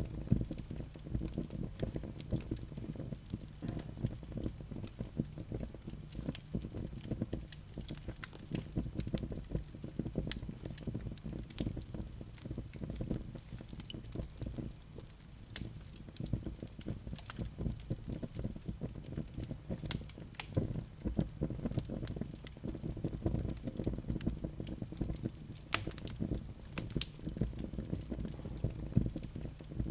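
Wood fire burning in a fireplace, with a steady low rumble of flames and many small, irregular crackles and pops from the burning logs.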